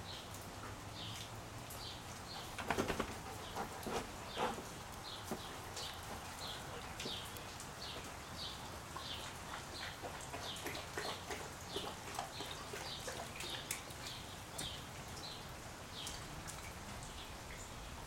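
A bird chirping over and over, about two short chirps a second. A quick cluster of knocks comes just under three seconds in, and a single knock a little after four seconds.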